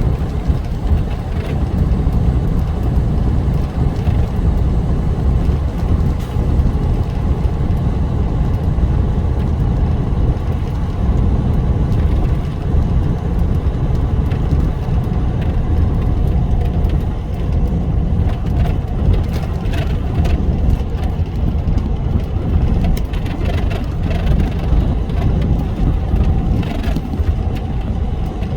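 Car driving on a highway: a steady low rumble of engine and road noise.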